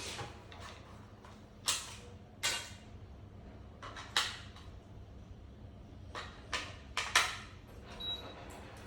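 Coffee tools and their packaging being handled during unboxing: about a dozen irregular clicks, knocks and rustles, the loudest just after seven seconds in.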